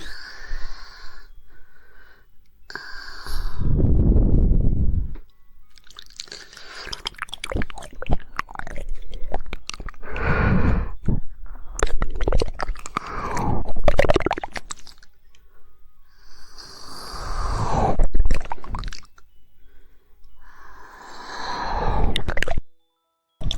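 ASMR mouth sounds close to the microphone: clusters of quick, sharp tongue clicks in the 'woodpecker' style, mixed with wet mouth noises, and a breathy rush about four seconds in.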